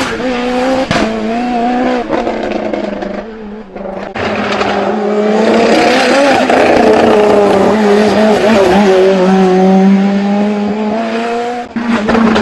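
Ford Escort Mk2 hillclimb race car being driven hard, its engine pitch rising and falling. The engine eases off for a couple of seconds about two seconds in, then comes back on throttle and climbs. There is a brief drop shortly before the end, as at a gear change.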